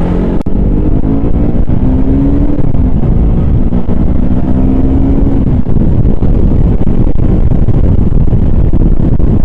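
Motorcycle engine running while riding, its note climbing over the first couple of seconds, holding, then easing off a little after about five seconds, under a heavy rumble of wind on the microphone.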